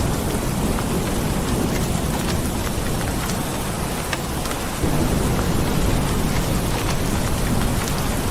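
Steady heavy rain with a low rumble of thunder underneath, which swells about five seconds in.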